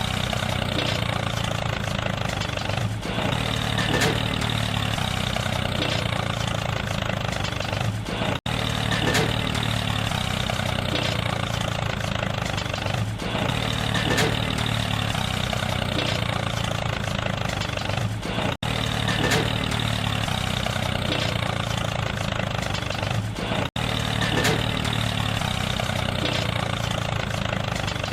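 Mini tractor engine running steadily at an even pace. It cuts out for a split second three times.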